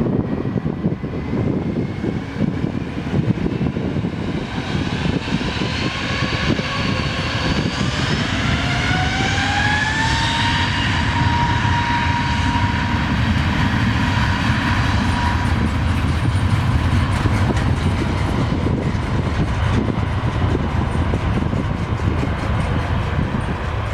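Airbus A321 airliner's twin jet engines on the takeoff roll: the engine whine rises in pitch over about ten seconds as they spool up, holds a steady tone for a few seconds, then fades into a heavy low rumble.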